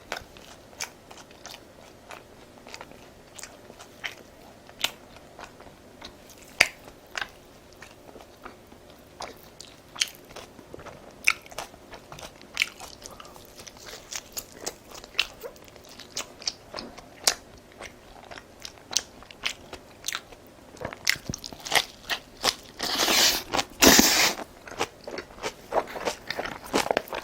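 Close-miked person eating: biting and crunching food and chewing with mouth clicks, sparse at first and much busier in the last few seconds, with a louder, longer rush of noise about 23 seconds in.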